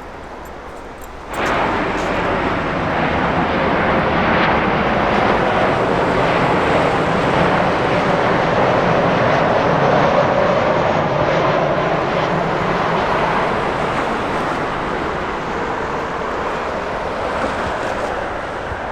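Jet airliner's engines as it passes close by: a loud rushing roar that starts abruptly about a second in, swells to a peak around the middle and then slowly fades.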